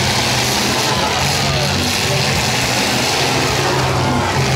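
Several demolition derby cars' engines running and revving together, loud and steady.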